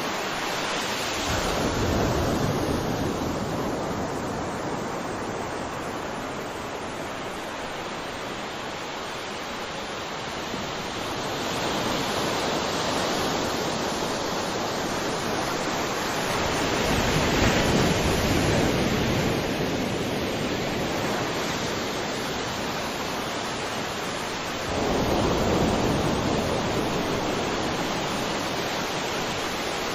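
Ocean waves breaking on the shore: a continuous wash of surf that swells with a new breaker every several seconds and then recedes.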